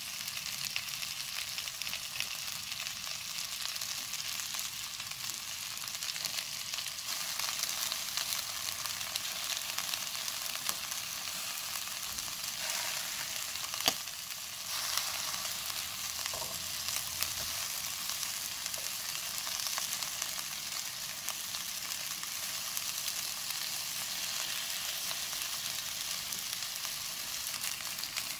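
Egg-and-flour-battered squid sizzling in hot oil in a wok, a steady frying hiss, with scattered small clicks and one sharp click about halfway through.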